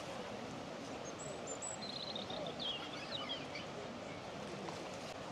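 Small birds chirping and trilling in short high notes, mostly in the first half, over a steady hiss of flowing river water.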